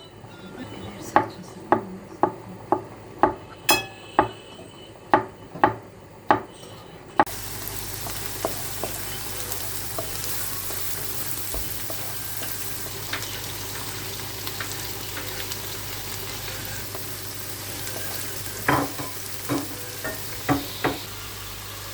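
Knife chopping on a wooden cutting board at about two strokes a second. After about seven seconds it gives way to food sizzling steadily in a frying pan, with a few knocks of a utensil against the pan near the end.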